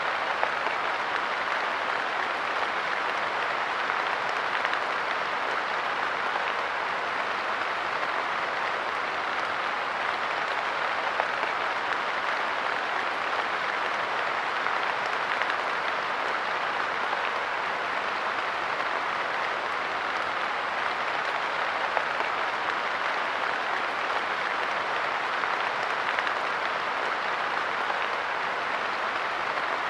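Steady light rain pattering on a park bench and the ground around it, an even hiss with small scattered drop ticks.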